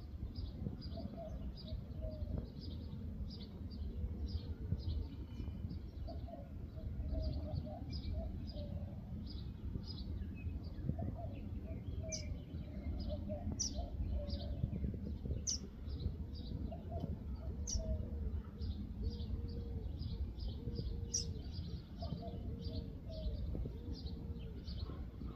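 Small birds chirping in long runs of short, high notes, several a second, with a dove cooing in low phrases that repeat every couple of seconds, over a steady low background rumble.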